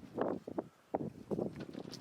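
Dry sticks and kindling being handled and broken for a campfire: a quick, irregular run of short cracks and crunches.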